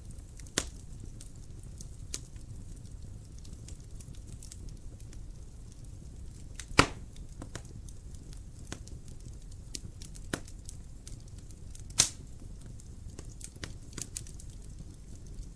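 Wood fire crackling in a fireplace: a steady low rumble of flames with scattered sharp pops and snaps, two of them much louder, one a little before halfway and one about three-quarters through.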